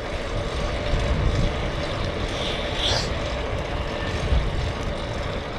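Wind buffeting the action camera's microphone, with the rumble of the tyres of a fixed-gear bike being ridden on the road.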